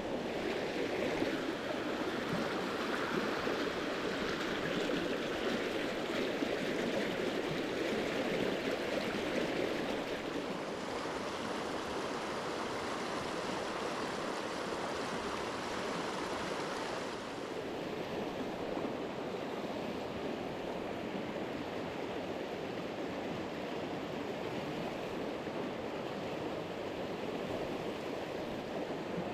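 Mountain stream flowing: a steady rush of water, a little louder in the first ten seconds and easing slightly just past the halfway point.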